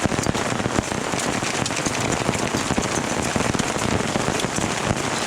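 Pea-size hail coming down hard, a dense, steady rattle of countless small impacts.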